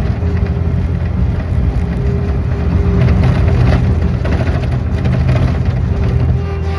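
An engine running steadily at a constant speed, with a low rumble and a steady hum.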